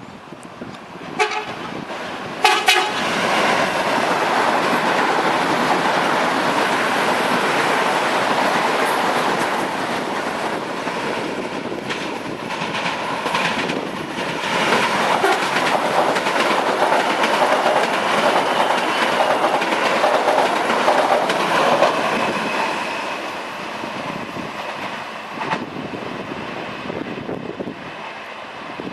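CPTM series 7000 electric multiple-unit trains passing each other. There are two short horn toots in the first three seconds, then a long pass of rushing wheels and rail clatter that swells a second time as the other train goes by and fades near the end.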